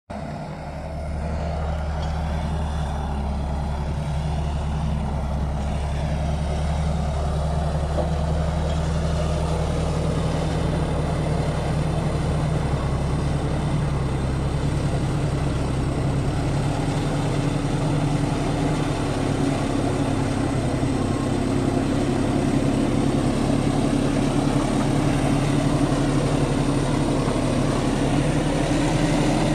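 Bulldozer's diesel engine running steadily as it works, its note shifting about halfway through.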